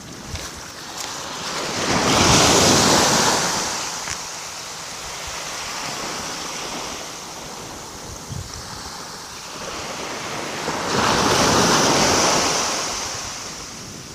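Small waves of a calm sea washing onto the shore twice, each swelling up over a second or two and fading away, about nine seconds apart, with a soft hiss of water between them.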